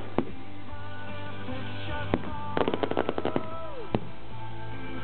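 Aerial fireworks bursting: single sharp bangs, with a quick run of crackling reports about halfway through.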